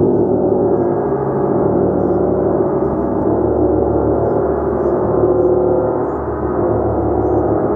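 A large gong played continuously, its many overlapping tones building into a dense, sustained wash at an even loudness, with no single strike standing out.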